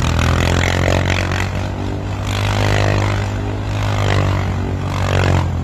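Off-road vehicle engine running hard at steady high revs, with a rough, noisy edge over the engine note.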